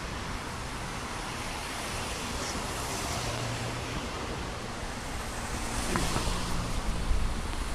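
Steady rushing noise of wind across the microphone mixed with tyres hissing on a wet path, heard while riding a bicycle in the rain.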